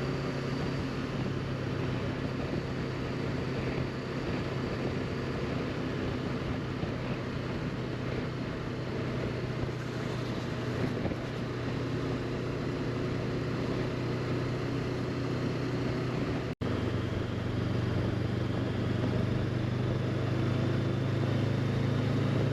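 Honda CB500X parallel-twin engine running at a steady cruise, with wind noise over the microphone. The sound drops out for an instant about sixteen seconds in.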